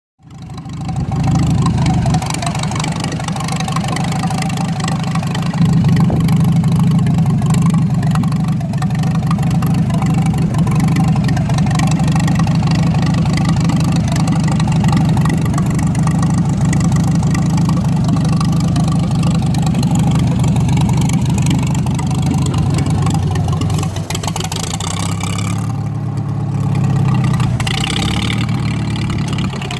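A large engine running steadily at an even, low idle, with only a slight change in its sound near the end.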